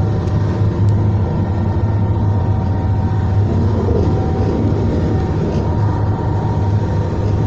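Onboard running noise of a Class 221 Super Voyager diesel-electric train travelling at speed. A steady low drone from its underfloor diesel engine and running gear, with faint steady tones above it.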